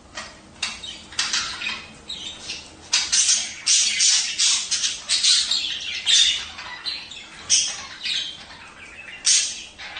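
Budgerigars chattering: rapid, irregular squawks and chirps, busiest in the middle of the stretch.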